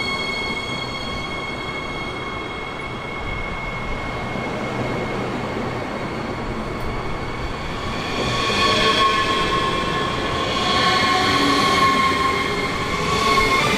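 Electric train moving through a station, with a steady high whine. From about eight seconds in, louder wavering squeals come in three surges.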